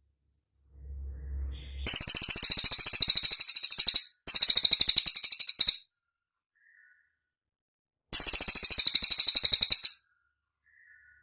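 Cililin bird singing fast, very high-pitched trills of rapidly repeated notes in three bursts of about two seconds each. A faint low rumble comes just before the first burst.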